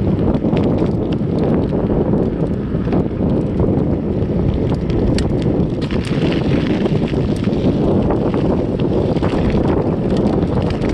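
Wind buffeting the microphone of a camera riding along on a bicycle, a loud steady rumble, with small clicks and ticks scattered through it.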